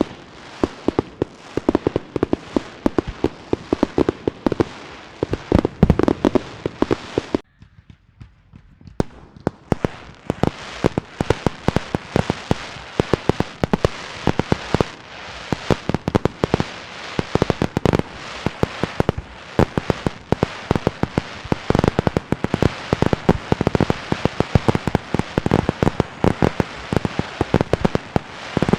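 Fireworks and firecrackers going off in dense, rapid strings of sharp pops and bangs. About seven seconds in they cut off abruptly, and after a gap of a second or two the pops start again.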